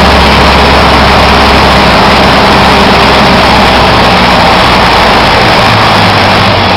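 Cessna 152's four-cylinder Lycoming engine and propeller running steadily and very loud, its low hum shifting in pitch near the end.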